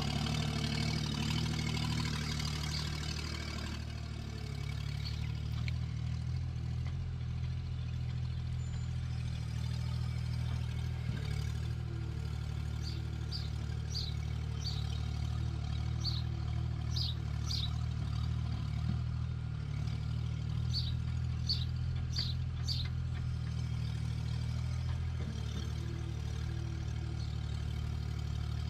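Skid steer engine running steadily, a little louder in the first few seconds. Short high chirps come in a series through the middle.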